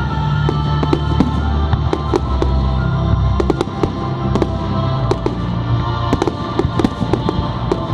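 Fireworks display going off, with many sharp bangs and crackles at irregular intervals, over music played over loudspeakers that the display is set to.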